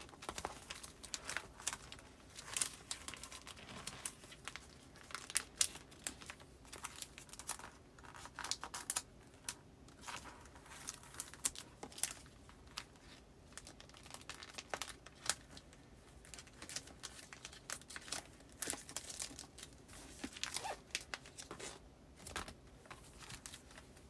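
Postcards and other paper goods being handled and filed into a folder's pages: irregular rustling and crinkling of paper and sleeves, with many short sharp crackles.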